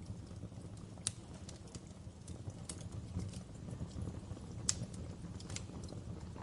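Wood fire crackling in a fireplace: irregular pops and snaps over a low, steady rumble, with a sharper pop about a second in and another just under five seconds in.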